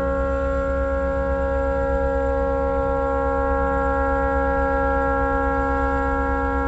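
A tugboat's stuck air horn sounding one continuous, unbroken chord of several steady tones, heard from a distance. The horn has malfunctioned and will not shut off.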